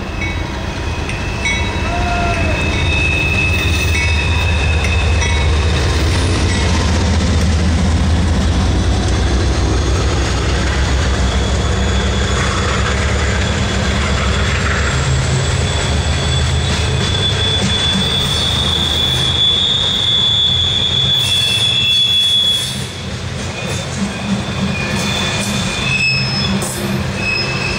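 CSX freight train passing close by: the diesel locomotives' low engine rumble for the first half or so, then a long string of Tropicana refrigerated boxcars rolling past with steady wheel noise and a high, drawn-out wheel squeal.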